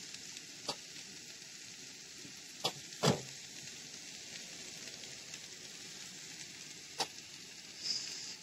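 Potatoes with mushrooms and onion sizzling steadily as they fry in a pan, with a few sharp clicks, the loudest about three seconds in. Near the end the sizzle briefly grows louder as vegetable oil is poured into the hot pan.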